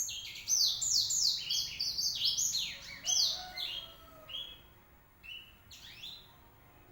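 Black-throated canary (blackthroat) singing a fast, varied song of quick high downward-sweeping notes. The notes are dense for the first three seconds or so, then thin out to scattered phrases.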